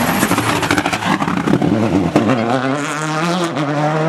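Rally car engine running hard at high revs, with a crackling, rasping exhaust at first; from about two seconds in the note settles into a clear tone that wavers briefly and then climbs steadily as the car accelerates.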